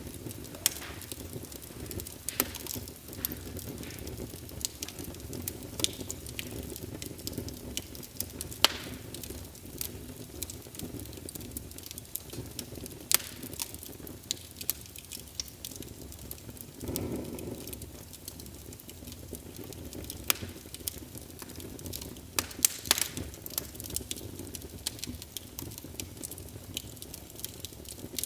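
Crackling wood fire as reproduced by a fireplace sound emulator: irregular sharp pops and snaps over a steady low rumble of flames, with a brief louder whoosh a little past halfway.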